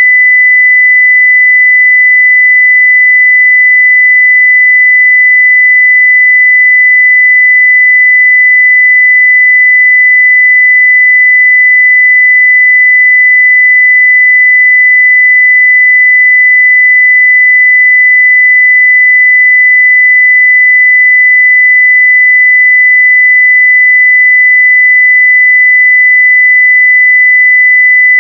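A pure 2 kHz sine-wave test tone held steady at full level (0 dB), with no change in pitch or loudness.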